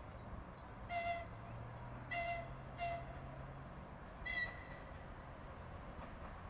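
Distant 2TE116 diesel locomotive approaching, its engine a low, steady hum. Four short pitched hoots, the loudest sounds, come over it, with faint birdsong.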